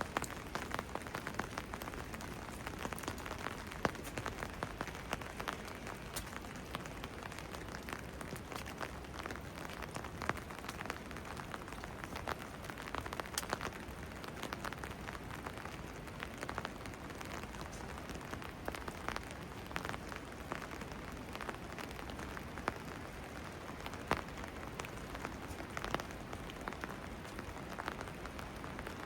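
Steady rain falling and pattering on surfaces, with many close drips and drop impacts ticking through it.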